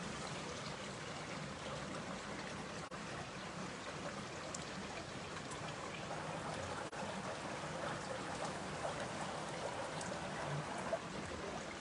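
Heavy rain falling steadily, a dense even hiss of rain and running water.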